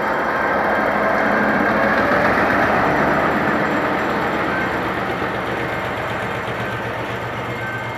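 Passenger coaches of a train rolling past over a level crossing, with steady wheel and rail noise. It is loudest about two seconds in and then slowly fades as the train moves on.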